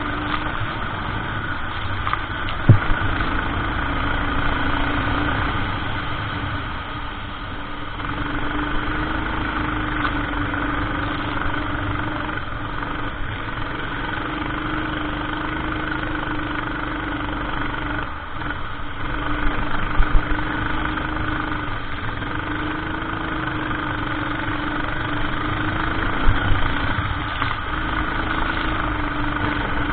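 Racing kart engine running under load, its pitch climbing and dropping again every few seconds as the kart accelerates and lifts through corners. A few sharp knocks break in, the loudest about three seconds in.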